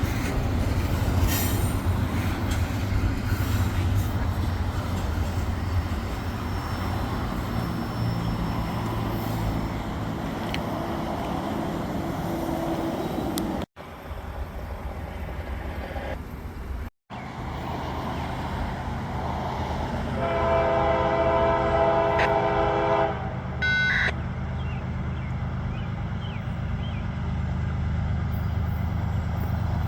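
A train running past with a steady low rumble. About two-thirds of the way in, a locomotive's multi-tone air horn sounds a chord for about three seconds, followed a second later by a short higher blast.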